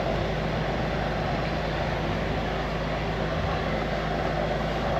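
High-pressure drain jetter running steadily with the water on, its engine-driven pump under load as the jet hose clears a silted pipe.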